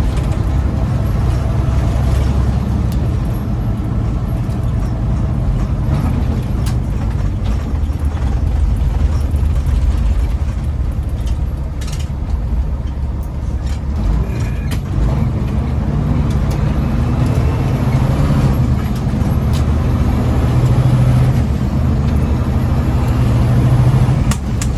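Diesel engine of a loaded big-rig truck running, heard from inside the cab, with a steady low rumble of engine and road noise; the engine note grows stronger in the second half.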